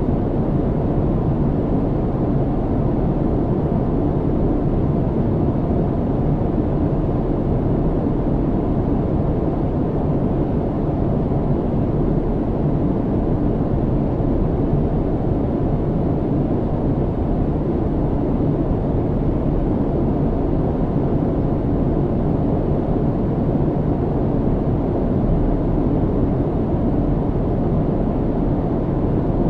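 Airliner cabin noise in flight: a steady, unchanging low drone, mostly deep with little hiss on top.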